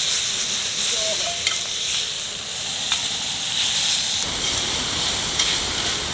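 Food sizzling and frying in a pan over a campfire: a steady hiss with a few sharp pops. About four seconds in the sound shifts abruptly to a fuller, lower hiss.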